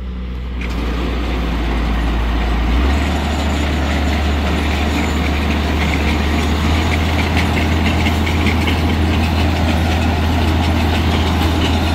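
Farm tractor engine running steadily while driving a round baler; its low note steps up slightly about three seconds in.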